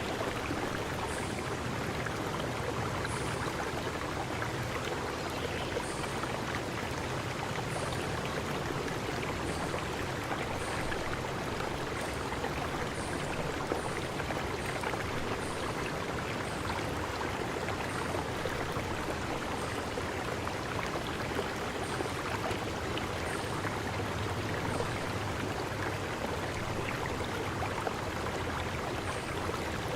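Flowing stream: a steady rush of running water, with short high chirps every second or two.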